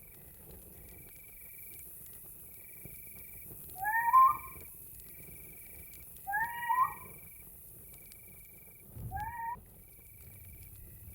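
Night ambience: crickets chirping in steady pulses of about a second, while an animal gives a rising, meow-like call three times, a couple of seconds apart, the last one quieter.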